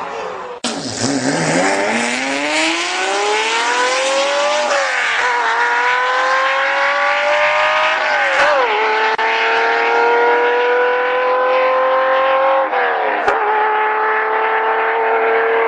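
Supercar engine accelerating away hard through the gears. Its pitch climbs steadily from low, drops at each of three upshifts and climbs again after each one.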